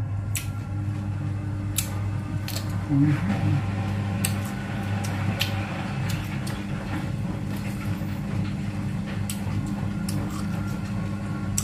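A person chewing with a mouth full and biting into a raw cucumber stick, giving a few sharp crisp crunches, over a steady low mechanical hum.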